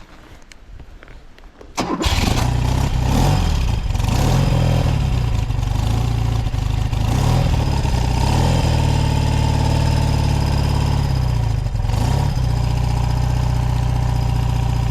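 BMW R100S air-cooled flat-twin engine firing up on a cold start with full choke about two seconds in. Its speed rises and falls for several seconds, then it settles into a steady fast idle.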